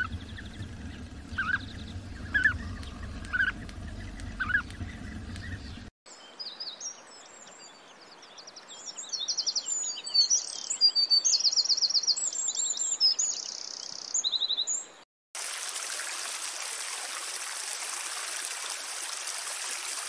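Wild birds calling. First, short calls about once a second over a low rumble. After a cut, a busy chorus of high chirps and fast trills. After another cut, a steady hiss.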